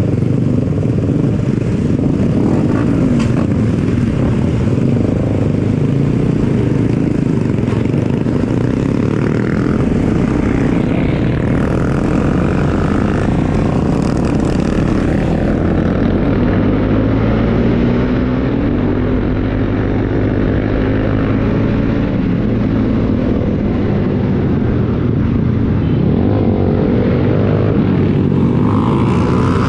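Bajaj Pulsar NS200 single-cylinder motorcycle engine running under way, its pitch rising and falling with the throttle.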